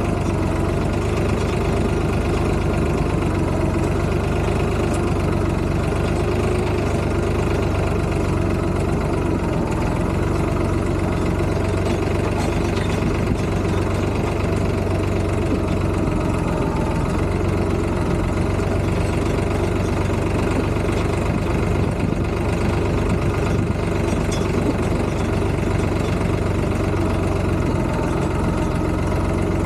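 Tractor diesel engine running steadily, an even low hum throughout.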